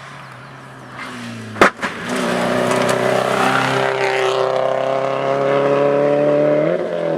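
Rally car engine at full throttle, its pitch climbing steadily as the car accelerates, with a quick rise in revs near the end. A single sharp bang comes about a second and a half in, just before the engine gets loud.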